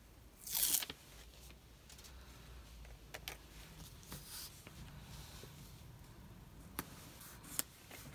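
Paper and small craft pieces handled on a desk: a brief scratchy rustle about half a second in, then quiet handling with a few light taps near the end.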